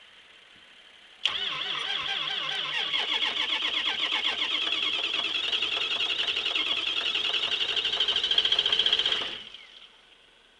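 A 2004 Ford 6.0 L Power Stroke V8 diesel being cranked on the starter in a cold start at about −5 °F without the block heater plugged in. The rhythmic cranking starts suddenly about a second in, runs for about eight seconds and then stops.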